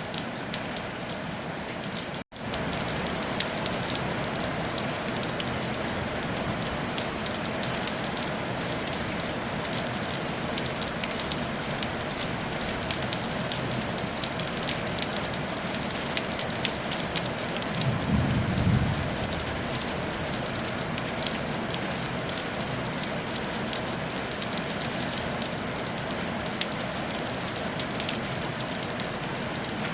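Steady rain falling on a tile roof, an even hiss with fine patter of drops. It cuts out for an instant about two seconds in, and a brief low rumble swells and fades about eighteen seconds in.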